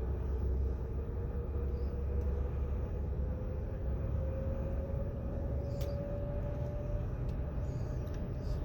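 Vehicle driving, heard from inside the cabin: a steady low road and engine rumble, with a faint whine that slowly rises in pitch and fades out about seven seconds in.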